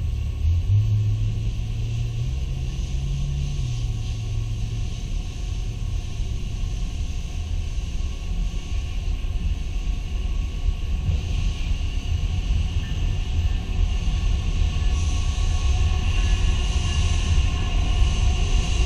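CN freight train approaching behind its diesel locomotives: a steady low rumble, with a higher rushing noise growing louder over the last several seconds as the train nears.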